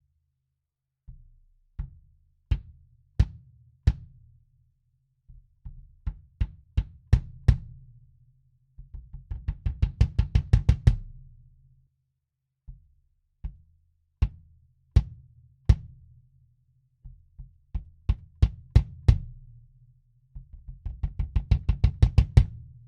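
A 22-inch kick drum with an Evans EMAD2 head being played alone: single bass-drum strokes about two-thirds of a second apart, then quicker strokes, then a fast run of rapid strokes that grows louder. The pattern plays twice.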